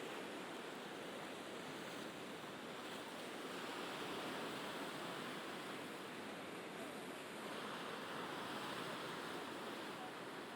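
Mediterranean sea waves washing on the shore in a steady wash that swells a little about four and eight seconds in.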